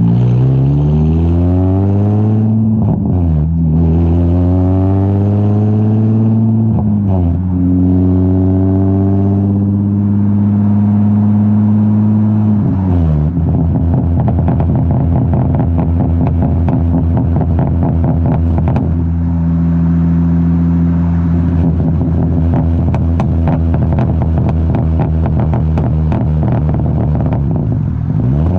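Straight-piped Infiniti G35's 3.5-litre V6 on a single-exit Z1 exhaust, accelerating with its pitch climbing and then dropping sharply twice, like upshifts. It then holds a steady, loud drone after another sharp drop about 13 seconds in, with a rapid crackle over it.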